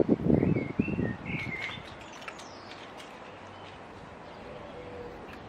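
A bird chirping a few short calls in the first two seconds, over gusts of wind on the microphone that die away after the first second or so.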